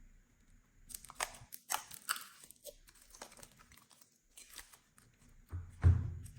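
Slime being squeezed and kneaded by hand, giving irregular crackles and pops, with one louder thud near the end.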